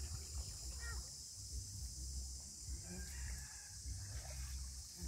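Faint bird calls over a low steady rumble.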